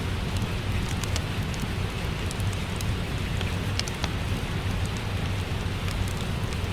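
Steady rain falling, a constant hiss with a low rumble, mixed with the sharp pops and crackles of a wood fire in a fireplace.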